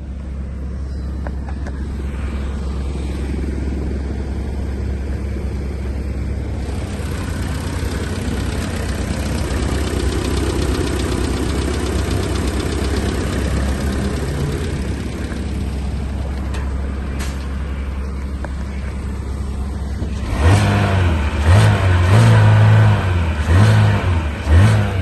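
2015 Chevrolet Sonic four-cylinder engine idling steadily, then revved in several quick blips over the last few seconds.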